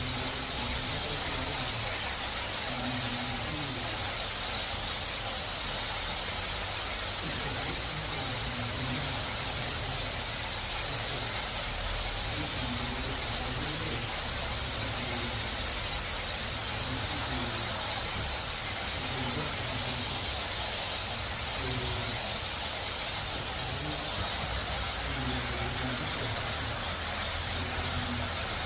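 Waterfall rushing steadily, an even hiss with no breaks.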